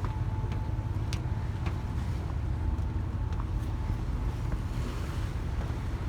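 Steady low rumble of the coastal ship MS Polarlys under way, with wind buffeting the microphone on deck and a few faint clicks.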